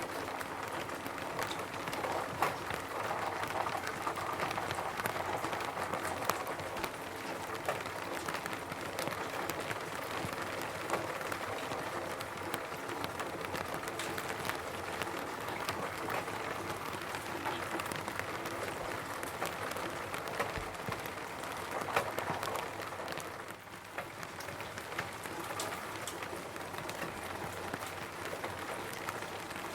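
Steady rain on a roof: a dense patter of raindrops with individual drops ticking through it, easing for a moment about three-quarters of the way through.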